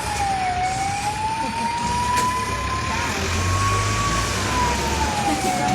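Fire engine siren wailing, a single tone dipping at the start, rising slowly for about four seconds, then falling again near the end. A low engine rumble runs beneath it in the middle.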